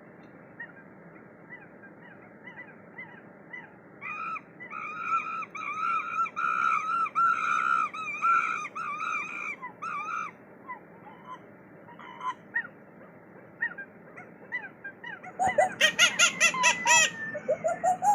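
A flock of waterfowl honking, with many overlapping calls throughout. Loud, rapid runs of honks stand out from about four to ten seconds in and again near the end.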